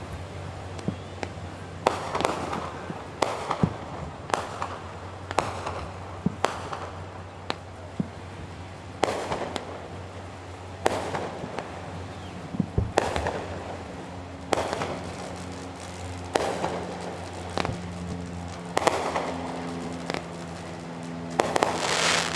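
Fireworks going off: sharp bangs at irregular intervals, a second or two apart, several trailing off in a short fading rush of noise, with a quick cluster of bangs near the end.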